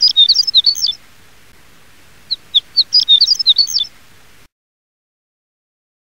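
A small songbird singing the same short high-pitched phrase twice, a couple of seconds apart: a few separate notes quickening into a rapid jumbled warble. The recording then cuts to silence about halfway through.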